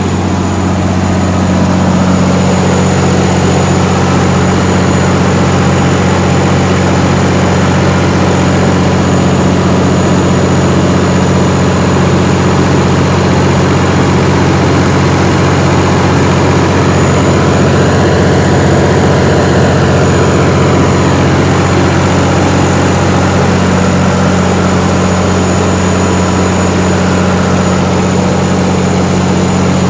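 White Motor Company diesel engine driving a Kohler generator, running steadily at constant speed with an even low hum.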